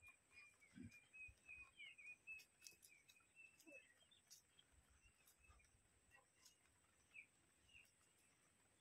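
Near silence with faint bird chirping: a quick run of high chirps in the first few seconds, then a few scattered ones. There are a few light clicks and a steady faint high-pitched tone underneath.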